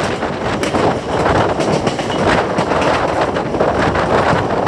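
Passenger coach of the 17644 Circar Express running at speed, its wheels rattling steadily over the rails with rushing air at the open door or window.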